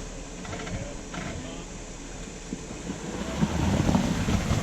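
Off-road Jeep's engine and tyres working over rocks, getting clearly louder about three seconds in as the engine pulls harder.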